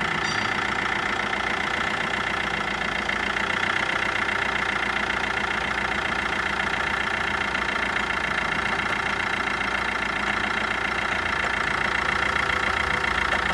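Fiat Linea's 1.3 Multijet four-cylinder turbodiesel idling steadily just after a cold start, with a light ticking from the alternator, whose brushes and bearing are worn.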